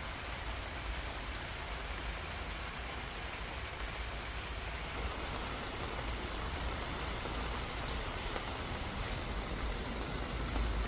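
Steady rain falling, an even hiss of drops on surfaces, with a low rumble underneath that grows louder near the end.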